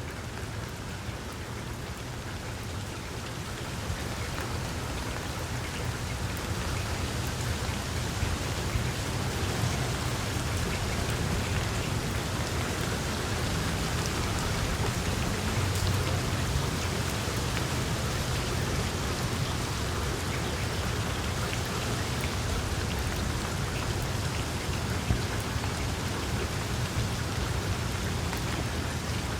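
Wood fire crackling in a fireplace: a dense patter of small crackles over a low rumble of flames, with an occasional louder pop.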